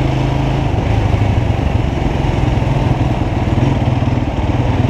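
Motorcycle engine running steadily at cruising speed, under a constant rush of wind noise.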